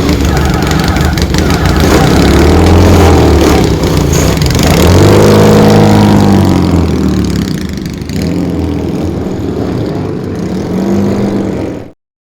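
Air-cooled classic racing motorcycle engine being revved twice, rising and falling in pitch, then running more quietly at lower revs. The sound cuts off abruptly near the end.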